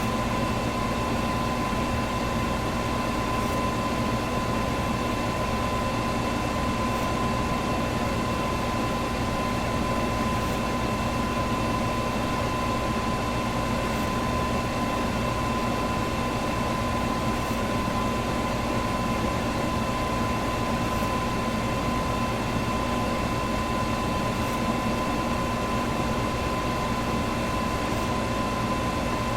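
An electric fan running steadily: an even whooshing rush of air with a faint steady whine on top.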